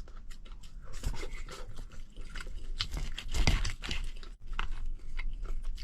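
Crispy scorched rice crust from the bottom of a claypot being bitten and chewed: a run of irregular crunches.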